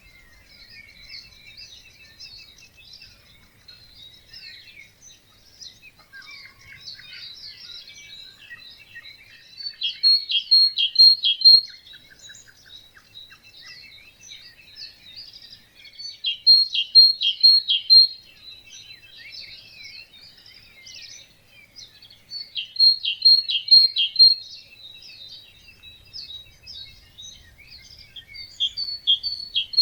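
Dawn chorus of many songbirds singing at once, their chirps and trills overlapping. One louder bird repeats a short phrase of four or five strong, even notes about every six seconds.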